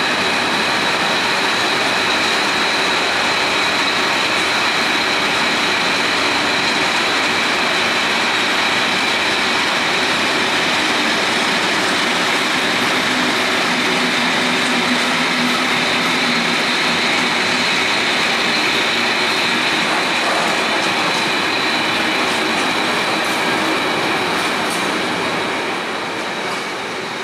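Freight train wagons rolling past on steel rails, a steady rumble with a high squeal from the wheels. The sound fades near the end as the last wagons go by.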